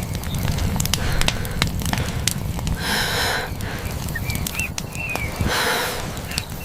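Fire crackling: scattered sharp pops over a steady low rumble, with two short hissing rushes about three and six seconds in and a few brief high chirps.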